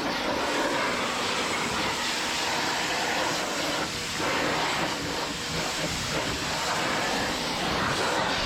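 Steady, loud hiss of water spraying onto a car's body during washing.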